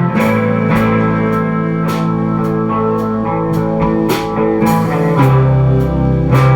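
Live indie rock band playing an instrumental passage: electric guitars and bass sustaining chords over a steady drum kit beat with regular cymbal hits.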